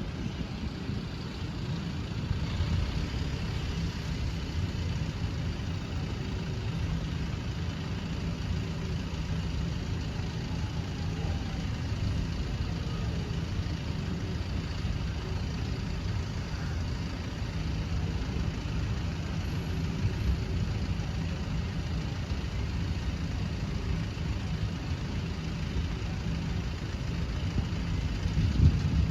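A road vehicle's engine idling steadily, a continuous low rumble.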